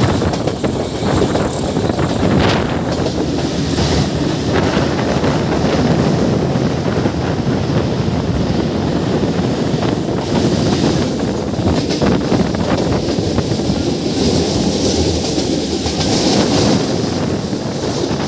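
Metre-gauge diesel passenger train running steadily, its wheels rumbling on the rails with a few clicks in the first few seconds, and wind buffeting the microphone held out of the window.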